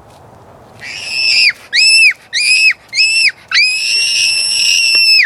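A girl screaming in fright after being told a spider is on her foot: four short, very high-pitched shrieks, then one long held scream near the end.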